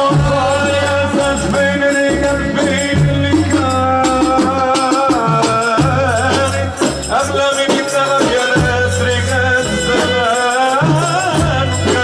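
Loud instrumental break of Egyptian sha'bi wedding band music: a sustained melodic lead line over a repeating heavy bass beat, with shaker-like percussion keeping a steady rhythm.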